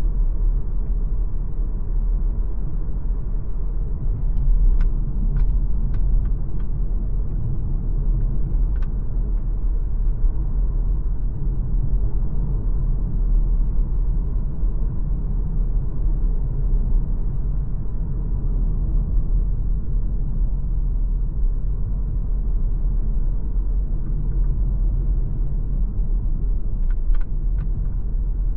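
MG ZS Hybrid+ on the move, a steady low driving rumble. A few short sharp ticks come about five seconds in and again near the end.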